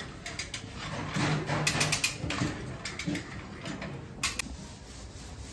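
Irregular clicks and light knocks, several in quick succession about two seconds in and a pair a little past four seconds.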